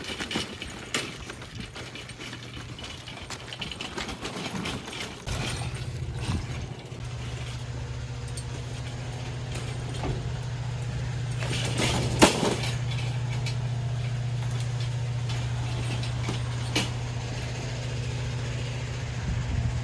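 Scattered rattles and knocks, then, from about five seconds in, a steady low mechanical hum like a running motor, with a few knocks over it and one loud knock about twelve seconds in.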